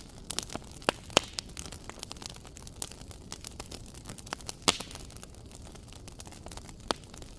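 Wood fire in a fireplace crackling, with irregular sharp pops and snaps over a low steady hiss; the loudest pop comes near the middle.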